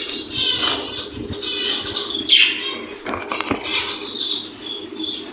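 Small cage birds fluttering their wings in an aviary, with a run of short high chirping calls.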